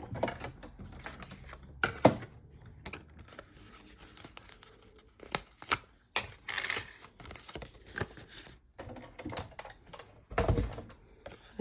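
Hand-cranked Big Shot die-cutting machine being turned, its cutting plates rolling through with irregular clicks and knocks, then cranked backwards; a heavier low thump near the end.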